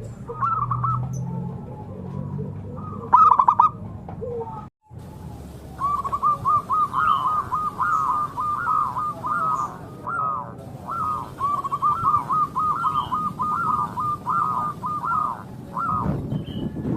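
Zebra dove (perkutut) calling: runs of short, rapid cooing notes. After a brief break about a third of the way in comes one long, unbroken run that stops shortly before the end.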